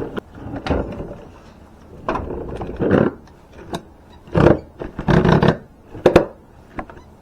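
Irregular bumps, scrapes and rustling from someone moving about and handling things, in about half a dozen separate bursts with a few sharp clicks.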